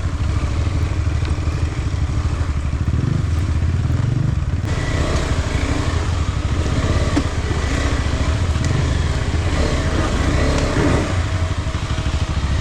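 Off-road motorcycle engine running steadily at low speed on a rocky trail. The sound gets noisier from about five seconds in.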